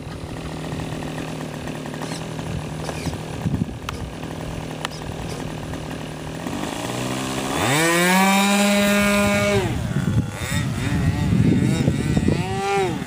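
O.S. .46AX two-stroke glow engine of an RC model airplane idling steadily. About seven seconds in it is throttled up sharply to a high, steady whine for about two seconds, then throttled back down, with a quick rev up and down near the end.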